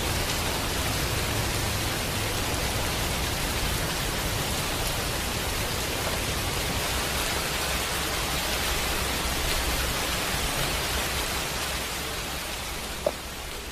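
Heavy tropical rain pouring onto tiled paving and garden plants: a steady, dense hiss that eases slightly near the end, with one short sharp tick just before it ends.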